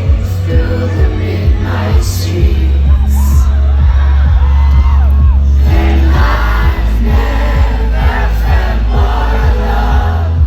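Live pop song played loud over a festival PA: heavy bass and a steady beat, with a woman singing over it and crowd noise from the audience. The vocal line is strongest in the second half.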